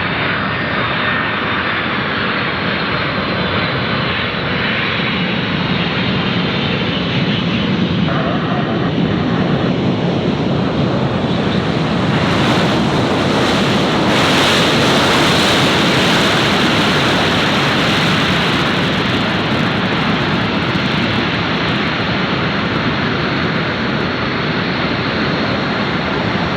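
Jet airliner engine noise, a loud steady rush that swells to its loudest about halfway through and then eases off a little.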